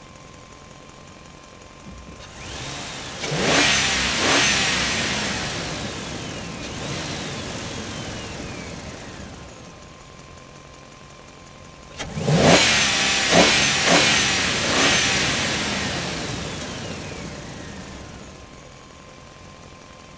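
An engine revving twice. Each rev starts with a quick rise about two seconds and twelve seconds in, then dies away over several seconds with a falling pitch.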